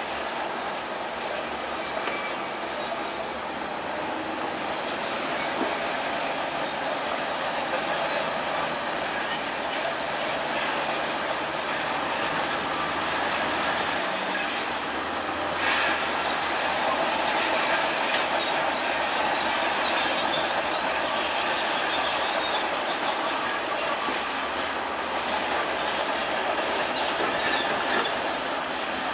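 Bulldozer at work, its steel crawler tracks squealing and clanking over the engine noise. A sharper clank comes about halfway through, after which it runs a little louder.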